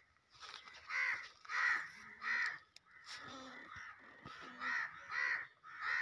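A bird calling: two runs of three short, harsh calls about half a second apart, the first run about a second in and the second near the end.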